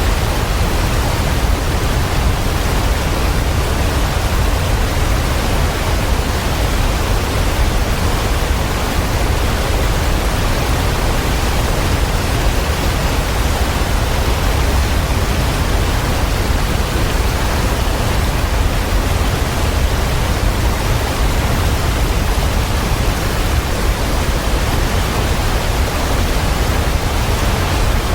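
Waterfall: water falling in a steady, unbroken rush, with a deep low rumble under a hiss.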